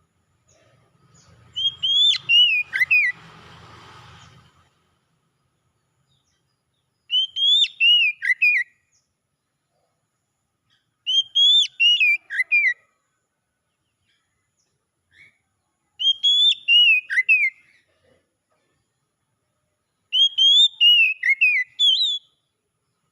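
Oriental magpie-robin (kacer) singing a short phrase of clear, falling whistles, repeated five times about every four to five seconds. A faint rustling noise sits under the first phrase.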